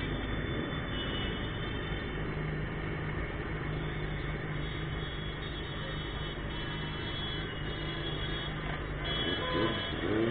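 Motorcycle engine running steadily on the move, with road and traffic noise. Near the end a brief wavering tone rises over it.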